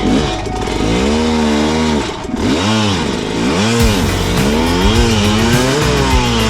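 Dirt bike engine revving up and down over and over, its pitch rising and falling several times a second under a steady low hum.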